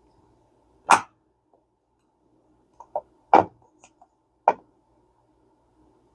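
A few sharp clicks and knocks of small fishing-reel parts and tools being handled on a workbench: one loud click about a second in, a quick cluster of lighter clicks and a loud knock past the midpoint, then another loud click.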